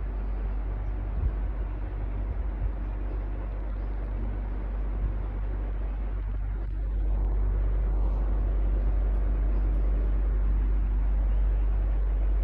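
Electric fan running steadily: a continuous whir over a low hum, with a few faint knocks in the first few seconds and a slight rise in loudness about seven seconds in.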